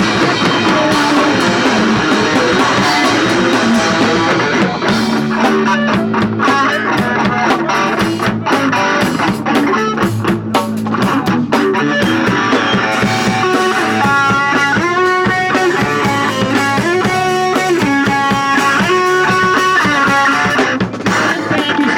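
Punk rock band playing live: electric guitar, bass guitar and drum kit. A higher melodic line comes in over the band about two-thirds of the way through.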